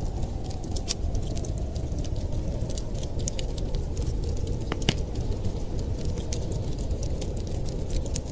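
Wood fire crackling with frequent small, sharp pops and one louder pop about five seconds in, over a steady low rumble of blizzard wind.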